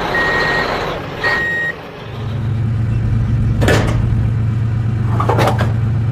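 Truck reversing alarm beeping twice, each beep about half a second, over a noisy background. About two seconds in, a steady low truck engine hum takes over, broken by two short hissing bursts.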